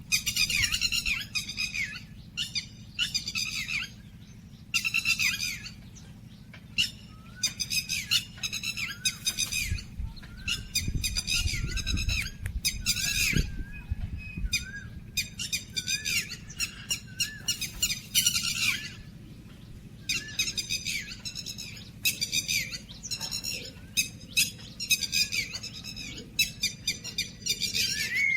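Songbirds at a feeder giving short, harsh, chattering calls over and over, about one every second, over a low steady hum.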